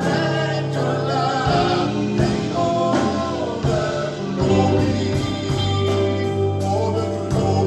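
Live gospel praise band playing with singers, a steady beat marked by cymbal strikes.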